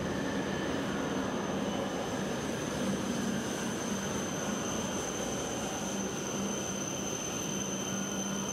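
Steady rumble of an E7 series Shinkansen train running slowly along the platform as it pulls into the station, with a steady low hum and a thin high whine throughout.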